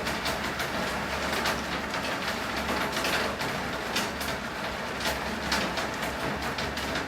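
Steady rain falling, with irregular sharp drips and splashes over a constant hiss, and a low steady hum underneath.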